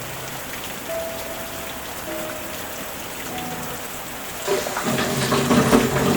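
Steady rain with soft background music of a few gentle held notes. About four and a half seconds in, a louder, busier water noise comes in.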